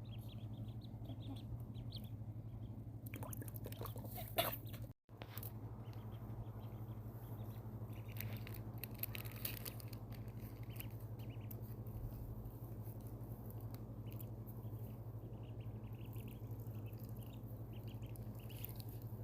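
Ducklings peeping softly now and then while they paddle and peck in shallow bath water, with small splashes and pecking clicks, over a steady low hum.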